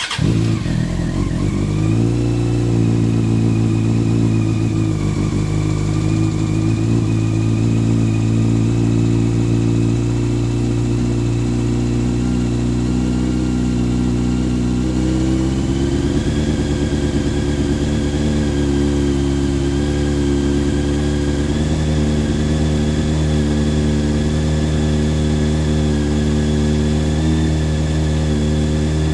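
Honda CBR600 F4's carbureted inline-four starting from cold, catching within the first second and settling into a steady idle, with a slight rise in idle speed about halfway through. This is a cold start after carburetor and fuel injector cleaner has been run through the fuel, which the owner credits with curing slow cold starting from partially clogged carburetors.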